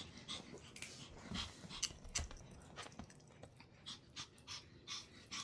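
Pomeranian panting, a string of short quick breaths, two or three a second.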